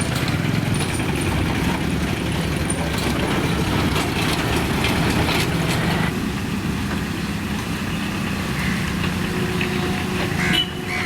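Small motor vehicles' engines running with a steady low throb, with scattered rattles and knocks. A faint steady tone comes in near the end.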